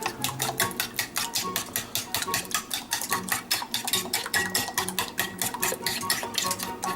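Beaten eggs being whisked with a utensil in a bowl, fast and even clicks of about six strokes a second as the salt is mixed in.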